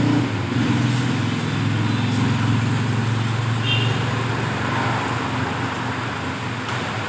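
An engine running steadily at low revs, with a brief faint high beep about three and a half seconds in.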